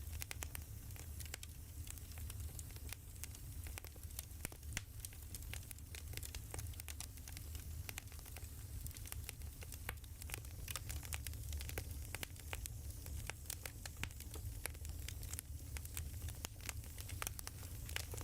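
Burning firewood crackling, with many irregular sharp pops and snaps over a steady low rumble.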